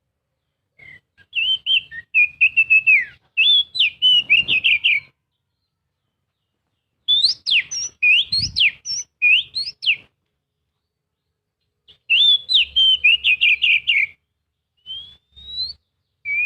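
Oriental magpie-robin (kacer) singing: three bursts of rapid, varied whistled notes and trills, each a few seconds long, separated by pauses of about two seconds, with a couple of short phrases near the end.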